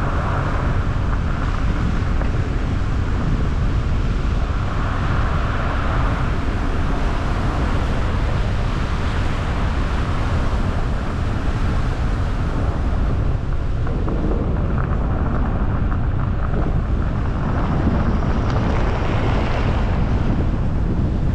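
Car driving at steady speed: continuous road and tyre rumble with wind buffeting the camera microphone.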